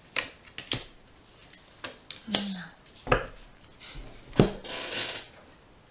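Handling noises: six or so sharp taps and knocks, with a short rubbing slide about five seconds in.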